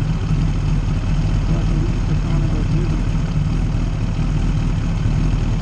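Yamaha sport bike's engine idling steadily at a standstill, heard close up from the bike.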